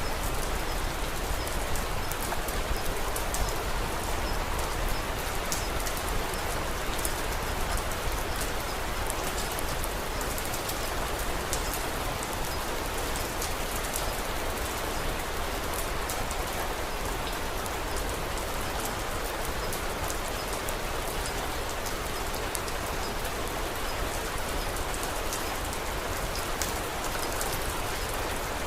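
Steady rain falling, with sharp crackles of a wood fire scattered through it.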